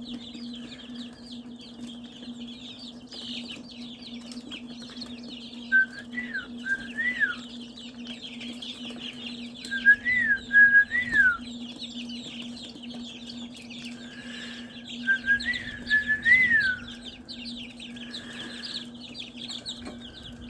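A brood of young poultry chicks peeping constantly in a high, dense chatter. Three times a bird gives a louder call of a few whistled notes that rise and then drop. A steady low hum runs underneath.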